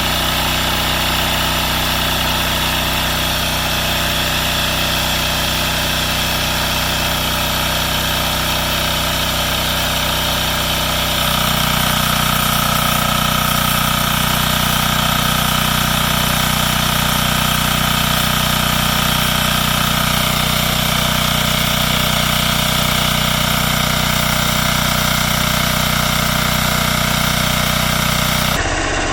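Yanmar L100V single-cylinder air-cooled diesel generator engine running steadily. About eleven seconds in the drone gets a little louder and takes on an added steady whine, and it changes abruptly just before the end.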